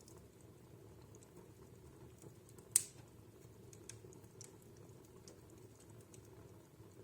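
Wood fire crackling in a fireplace: faint, scattered crackles, with one sharp, loud pop a little under three seconds in.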